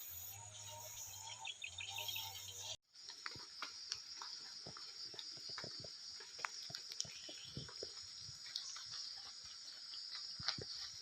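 Steady high insect chirring from a field, with scattered crackling and snapping clicks throughout. The sound breaks off briefly about three seconds in.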